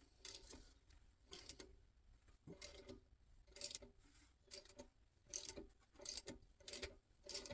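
Faint, irregular clicks of a hand ratchet turning the forcing bolt of a harmonic balancer puller on a 350 Chevy small-block, some clicks with a short metallic ring.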